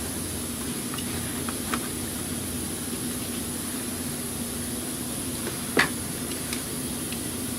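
Steady background hum with a few light clicks and knocks from parts being handled during hose and clip refitting under the hood. One sharper click comes near the end.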